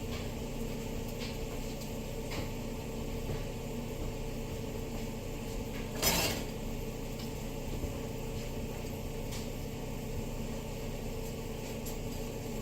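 Kitchen handling noise: one short clatter of dishes about six seconds in, with a few faint clicks, over a steady background hum.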